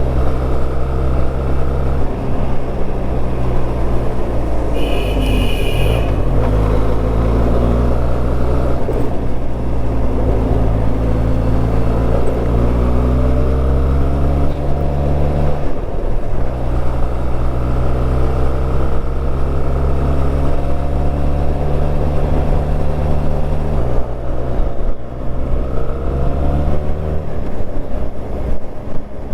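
Benelli TRK 502's parallel-twin engine pulling the motorcycle up a winding ghat road in the low gears, its pitch rising several times under throttle and dropping suddenly about sixteen and twenty-four seconds in. A brief high-pitched beep sounds about five seconds in.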